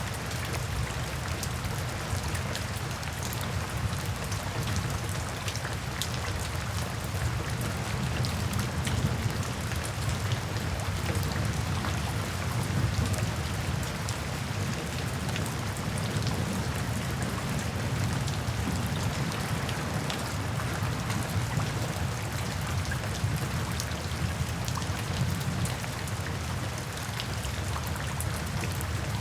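Steady rain falling, with individual drops ticking sharply through the even hiss and a steady low rumble underneath.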